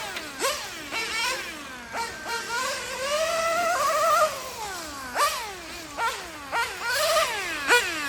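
Nitro engine of a BMT 021 GT radio-controlled car, an OS Speed 2103R, running at high revs. Its pitch rises and falls off again over and over as the car accelerates and lets off, with shorter, quicker revs near the end.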